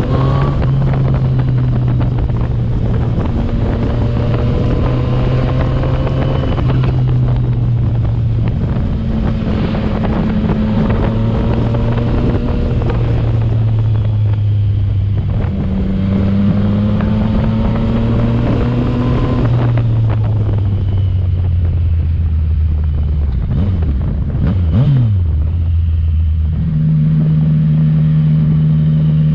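Yamaha MT-09's three-cylinder engine through a Yoshimura exhaust, ridden through the gears: the pitch climbs slowly in each gear and drops at each shift, with wind noise on the microphone. Near the end comes a short rev blip, then steady running at low revs.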